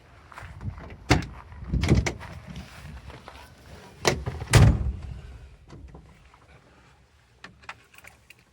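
Vehicle door clunks and knocks: a handful of sharp impacts, the loudest about a second in, near two seconds and twice around four to four and a half seconds, then a few lighter clicks near the end, over a faint low rumble.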